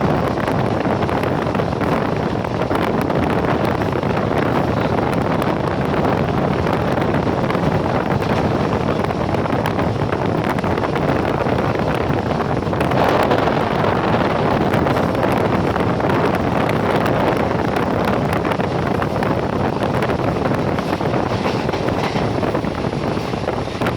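Steady rushing noise of a moving train with wind buffeting the microphone, swelling briefly about halfway through.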